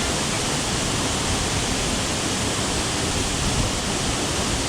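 Ampola waterfall rushing: a steady, unbroken wash of falling-water noise.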